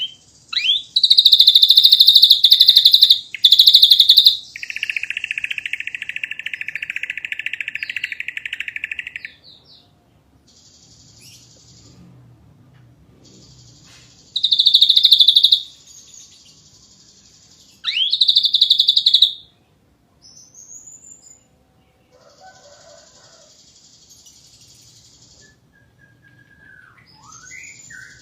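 Ashy drongo singing in separate phrases with pauses between them: loud, rapid trills, one long lower trill lasting about five seconds, and a few short whistled glides in the later part.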